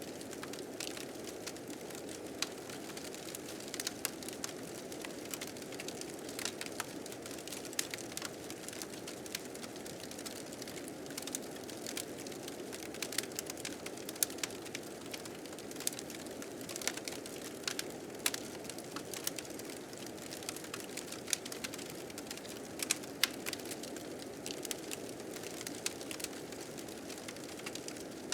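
Wood fire crackling, with frequent irregular sharp pops, over a steady rushing of blizzard wind.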